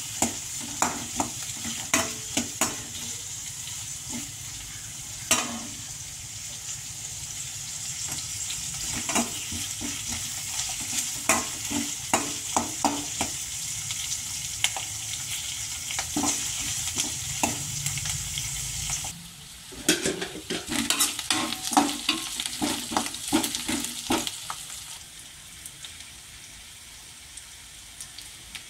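Chopped onions, dried red chillies and curry leaves sizzling in hot oil in a metal kadai, with a metal spatula scraping and knocking against the pan as they are stirred. About two-thirds of the way through the sizzle stops and a quick run of spatula clatter follows, then it quietens.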